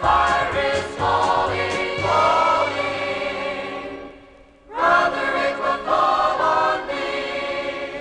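Choir singing a gospel hymn with instrumental accompaniment; a phrase fades away, and after a brief pause about halfway through the choir comes back in.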